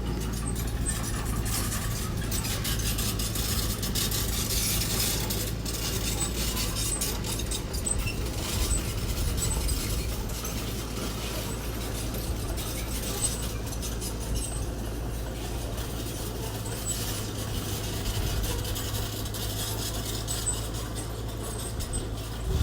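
A steady low machine hum with scattered small clinks and clicks over it.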